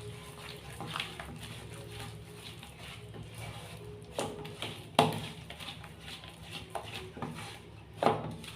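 Kitchen handling sounds while batter is being made: a few sharp knocks and taps of a bowl or utensils, the loudest about five seconds in, over a steady low hum.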